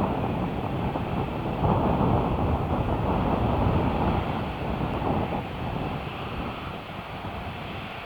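Jet airliner engines heard as a deep rumble without clear tones, swelling about two seconds in and then slowly fading.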